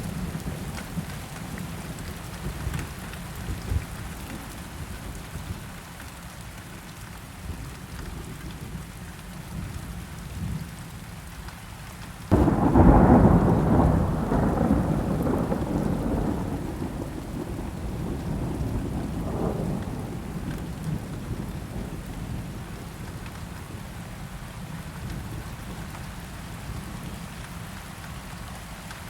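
Steady rain falling, with a sudden clap of thunder about twelve seconds in that rumbles on and fades away over several seconds.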